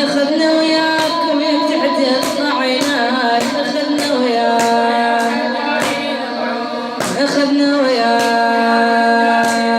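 A woman singing a Shia latmiya lament in long, held, wavering notes, over a steady percussive beat about once a second.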